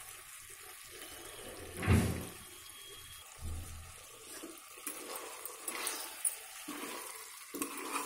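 Chicken pieces frying in oil and curd masala in an aluminium pressure-cooker pot, a steady sizzle as they are stirred with a steel ladle; the chicken has fried down till cooked through. A louder knock about two seconds in, with a few lighter clicks later.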